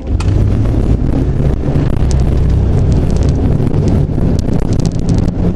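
1991 Jeep Cherokee's 4.0-litre straight-six engine running steadily, with wind buffeting the microphone.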